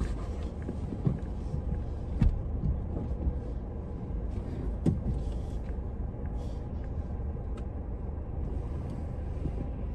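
Car engine running, heard from inside the cabin as a steady low rumble, with a few soft knocks.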